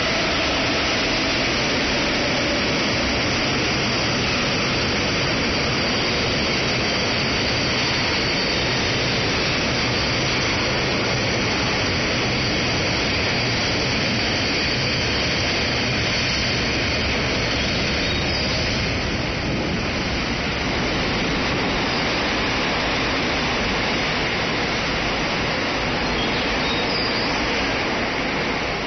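JR Freight EF210 electric locomotive and a long train of gasoline tank cars passing through a station, a steady heavy rolling noise of steel wheels on rail that eases off right at the end as the last cars go by.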